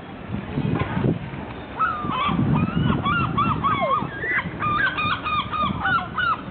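A flock of birds calling over one another in many short, quick calls, starting about two seconds in.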